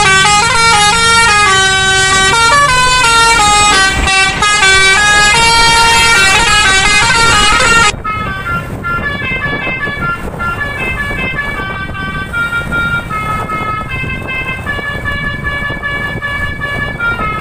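Indonesian bus multi-tone musical horns (telolet horns) playing a stepped melody of held notes over a steady low rumble. About halfway through the sound drops sharply in level and the tune carries on more quietly.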